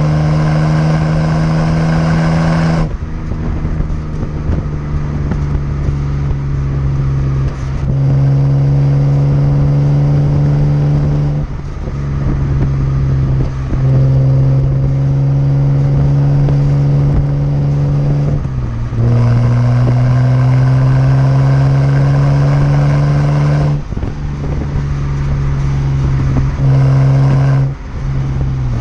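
BMW 330i straight-six engine and aftermarket Rogue Engineering exhaust, heard while the car drives. Its drone climbs slowly in pitch, then briefly dips and drops in pitch every few seconds.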